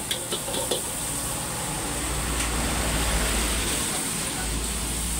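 Butter sizzling in a hot wok, with a steady hiss. A metal spatula taps and scrapes against the wok a few times in the first second. A steady low rumble runs underneath from about two seconds in.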